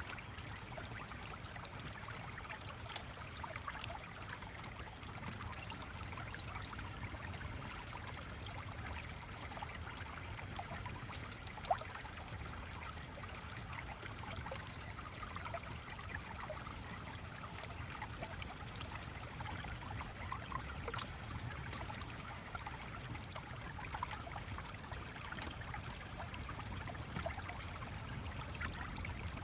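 A gently flowing, trickling stream runs steadily, with small scattered ticks and one sharper click about twelve seconds in.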